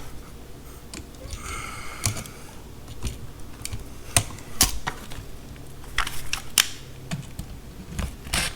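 Scattered light clicks and knocks of hand tools and a wall outlet being handled while the outlet is wired and fitted into its box, with a short rustle about a second and a half in.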